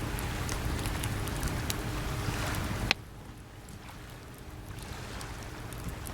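Wood campfire crackling with sharp little pops, over the steady wash of calm sea waves. About three seconds in one louder pop comes, and the wash drops noticeably quieter.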